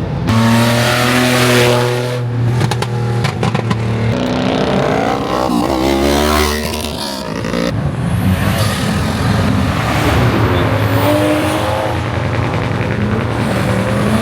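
Car engines at a car meet: cars running and revving, pitch climbing and dropping with a hard rev about halfway through, then more rising and falling engine notes.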